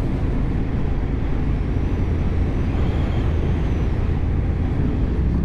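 Adventure motorcycle engine running steadily at road speed, with wind noise rushing over the microphone.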